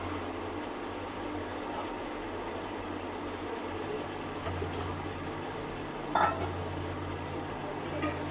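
Food frying in oil in a cooking pot, a steady sizzle, while it is stirred, with one sharp clink of a utensil against the pot about six seconds in.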